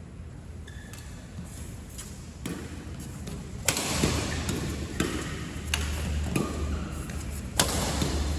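Pickleball rally: paddles striking the plastic ball and the ball bouncing on the court, in an irregular string of sharp knocks, with louder background noise coming in about four seconds in.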